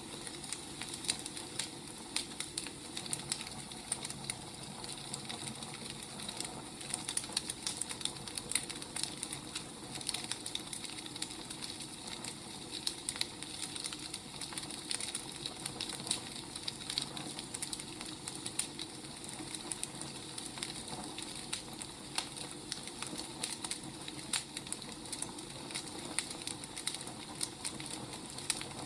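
Firewood burning, crackling with many small irregular pops and snaps over a steady hiss.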